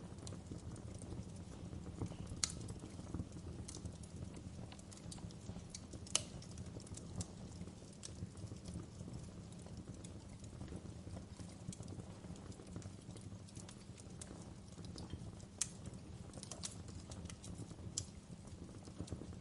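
Wood fire crackling in a fireplace: a steady low rumble with scattered, irregular sharp pops and snaps of burning logs, three or four louder than the rest.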